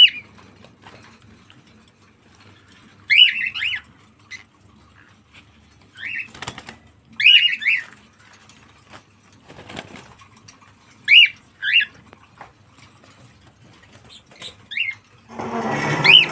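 Cockatiel giving short chirping calls, singly and in quick pairs every few seconds, with a rustling burst of about a second near the end.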